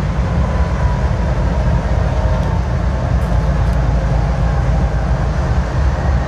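Train running past with a steady, heavy low rumble and rail noise.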